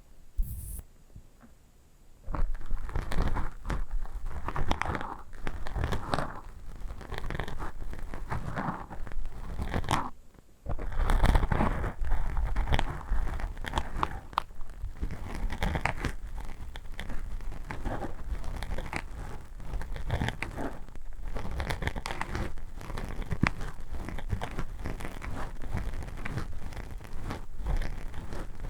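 Something crinkly being rubbed and crumpled, a dense run of small crackles and rustles that starts about two seconds in and breaks off briefly near the ten-second mark before going on.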